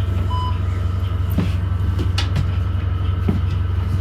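2017 New Flyer XDE40 hybrid bus underway, heard from inside: a strong steady low drone with a few clicks and rattles, and a brief beep about half a second in. The bus has an unusual running sound that the rider suspects comes from its transmission or a loose screw or panel.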